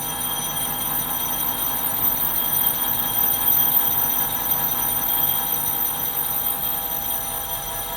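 Metal lathe taking a cleanup facing cut on a welded steel plate, with a steady high-pitched ringing over the cutting noise.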